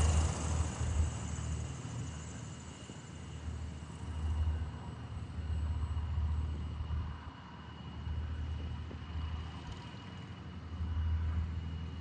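Cessna 170's six-cylinder engine, loud at the very start and then dropping to a faint, uneven rumble that swells and fades a few times as the plane moves away.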